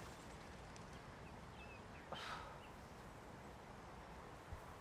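Faint outdoor ambience with a soft steady hiss, and a brief faint bird call about two seconds in.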